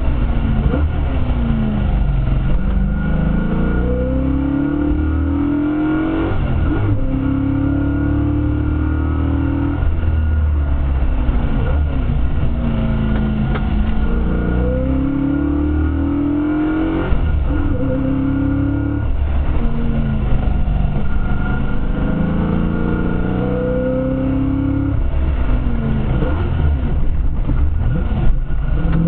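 Leyland P76 race car engine under hard acceleration, its pitch climbing for a couple of seconds, dropping at each gear change and climbing again, over and over.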